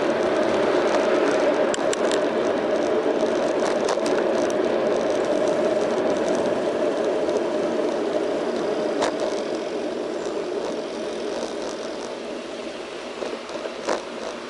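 Riding noise from a bicycle on a city street, picked up by a bike-mounted action camera: a steady rush of road and traffic noise with a few small rattling clicks, easing off slightly over the second half.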